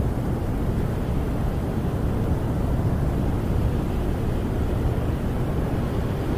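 Snowstorm wind buffeting a camper, heard from inside: a steady, deep rush of wind with no separate gusts or knocks.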